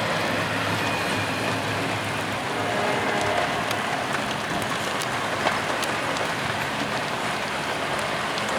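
Heavy thunderstorm rain falling, with scattered sharp ticks of drops striking close by. A freight train runs faintly underneath.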